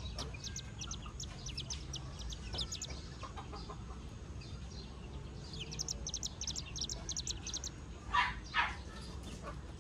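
Baby buff-banded rail chick peeping: quick runs of short, high peeps, with two louder, lower calls near the end.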